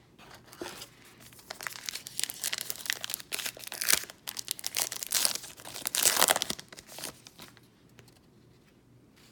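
Trading-card pack wrapper being torn open and crinkled by hand. The crackling goes on for about six seconds, loudest in the middle, then stops.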